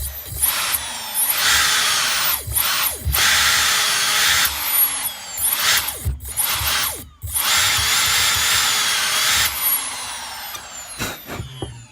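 Brushless RC boat motor run up on its ESC in several throttle bursts, a high electric whine that winds down in pitch near the end. The motor is vibrating and running too hot, which the owner takes as a sign that it is broken.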